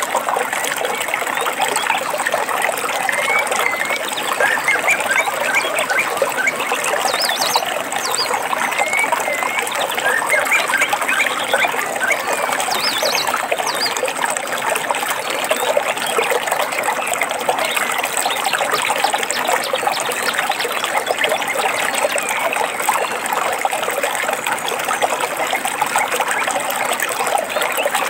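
Water trickling and babbling steadily over stones, with a few short bird chirps now and then above it.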